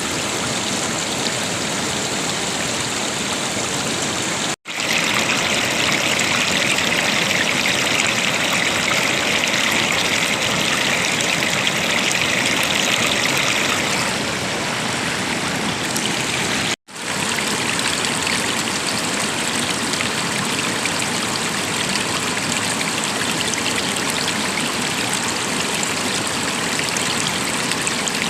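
River water rushing and splashing steadily over a shallow bed. It cuts out twice for an instant, about 5 and 17 seconds in, and between the first cut and about 14 seconds in the rushing is louder and hissier.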